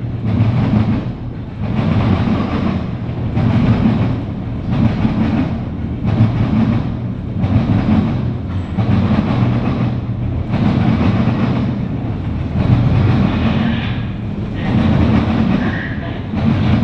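CSX intermodal freight train's cars rolling past, the wheels pounding and rumbling in a regular beat of about one surge every second and a bit.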